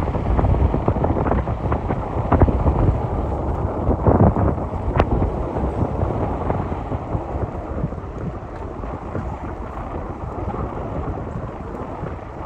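Gusty wind buffeting the microphone: a loud, rough rumble with scattered crackles that eases in the last few seconds.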